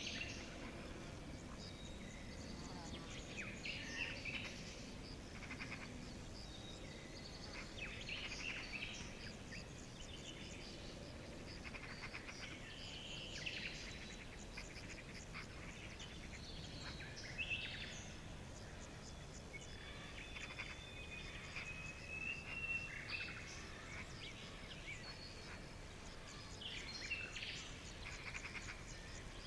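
Forest birdsong: many birds chirping and trilling at once, with a few thin whistled notes, over a faint steady background hiss.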